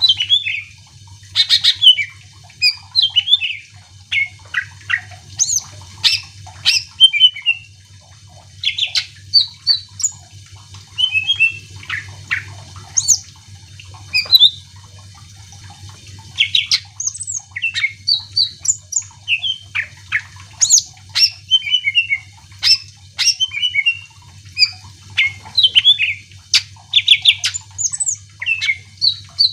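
A cucak ijo (green leafbird) singing a fast, varied song of loud chirps, whistles and quick rising and falling notes, in phrases with a short pause about halfway through. A faint steady low hum runs underneath.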